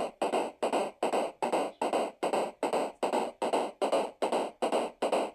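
Electronic music: a steady beat of short, noisy percussion hits, about two and a half a second, with no melody.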